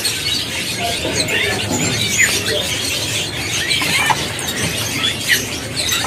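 Many caged birds chirping and calling over one another: short high chirps and brief rising and falling whistles, over a steady low background murmur.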